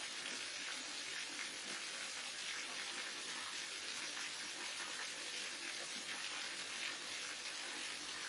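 Falling water from a waterfall, a steady, even rush and splash with no let-up.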